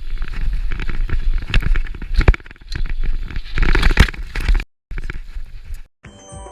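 Mountain bike being ridden over rough ground: wind rumble on the microphone with tyre crunch and rattling, and sharp knocks about one and a half, two and a quarter and four seconds in. The sound cuts off abruptly shortly before the end.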